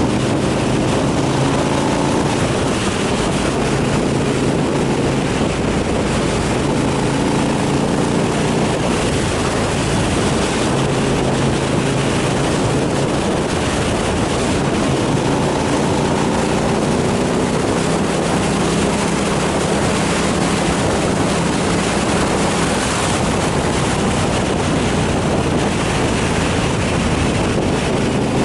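Motorcycle engine running on the road under heavy wind rush on the microphone, the engine note shifting up and down every few seconds with changes of speed.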